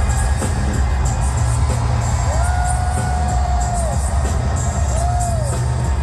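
Live pop music played loud over an arena sound system, with a heavy bass beat, ticking hi-hats and a couple of long held notes, over the murmur and occasional whoops of a large crowd.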